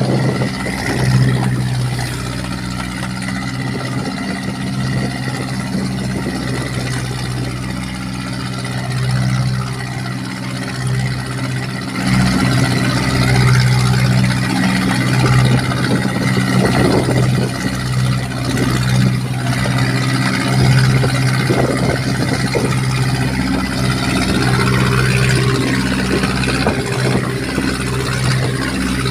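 Boat's Mitsubishi 4D31 four-cylinder diesel main engine running steadily, with an even hiss over it.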